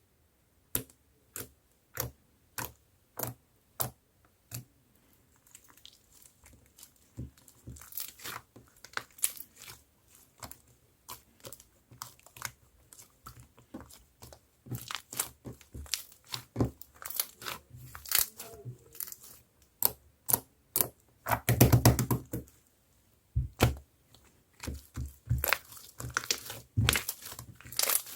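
Hands playing with a thick marbled slime: sharp sticky pops and clicks as it is pressed and poked, about one every half second at first. They become denser crackling and squishing, with a louder burst of crackle about three-quarters of the way through.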